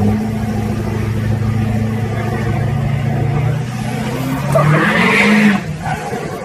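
A motor vehicle's engine runs at a steady pitch, then revs up a little about four seconds in. A loud burst of hissing, skidding noise comes about five seconds in.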